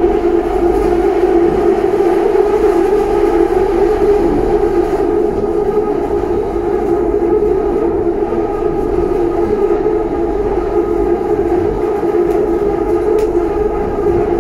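Inside a BTS Skytrain car running along the elevated track: a steady rumble with a constant droning tone that holds without a break.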